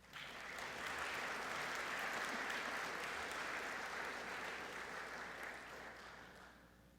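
Audience applauding in a gym, starting right after a name is called, holding steady and fading out near the end.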